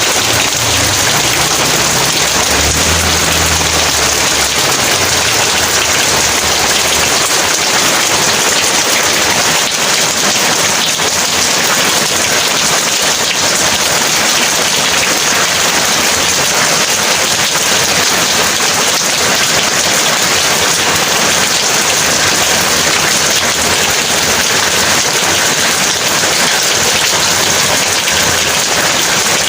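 Heavy rain falling steadily, a dense constant hiss of drops on surfaces. A low rumble of thunder runs under the rain at the start and dies away about seven seconds in.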